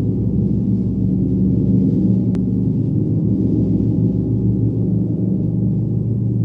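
Gong played as a continuous sound-bath wash: a steady, dense low drone of many overlapping tones, with no separate strikes heard. A faint click about two seconds in.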